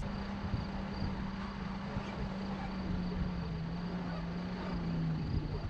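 A car engine running at steady revs, its pitch slowly sinking, with insects chirping in a faint high pulsing trill.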